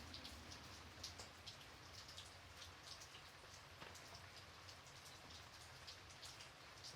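Faint, gentle rain: a steady soft hiss with many separate drops tapping at irregular moments.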